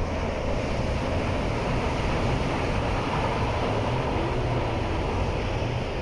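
Steady blizzard wind rushing and buffeting the microphone, with a low steady hum underneath.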